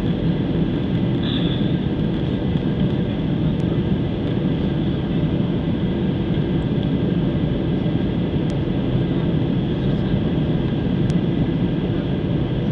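Steady cabin noise of an airliner heard from inside the passenger cabin: engines and airflow running evenly, with a few faint clicks.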